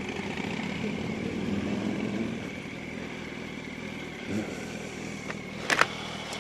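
Yamaha R1's inline-four engine running steadily with no revving, under road and wind noise. A sharp click comes about a second before the end.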